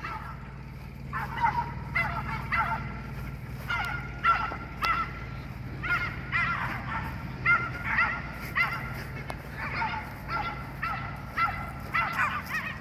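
West Highland terriers yipping and whining in short, high, honk-like calls, roughly one a second, over the steady low hum of a moving golf cart.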